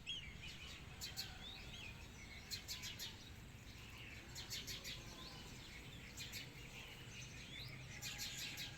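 Small birds chirping, with bursts of quick chattering calls every second or two, over a steady low background rumble.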